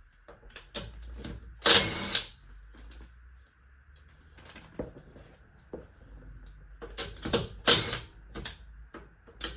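Metal hand tools and sockets clattering and clinking as they are rummaged through, with two louder rattling clatters, about two seconds in and again near eight seconds.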